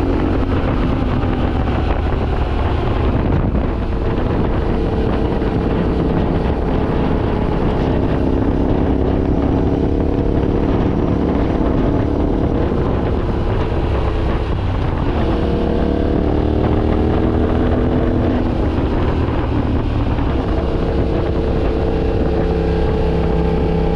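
Yamaha Ténéré 700's 689 cc parallel-twin engine running under way, its pitch climbing with acceleration and dropping back at gear changes several times, with wind rushing over the microphone.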